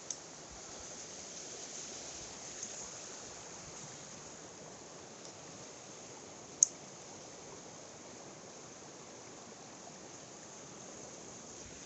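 Mountain stream water rushing steadily, with a single sharp click about six and a half seconds in.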